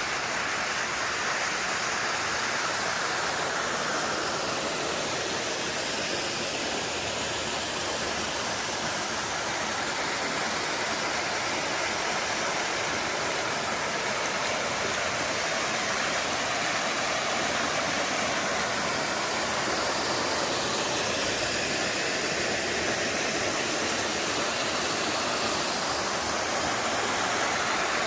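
Waterfall on a mountain valley stream: a steady rush of falling water.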